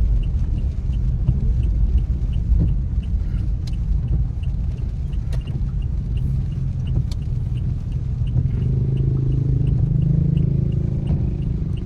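Car cabin rumble from the engine and tyres on a rain-wet road, with a regular tick about twice a second from the turn signal. The rumble grows louder about two-thirds of the way in.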